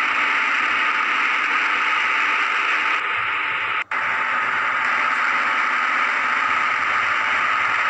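Steady rushing rumble of a train running along the track, broken by a very short dropout about four seconds in.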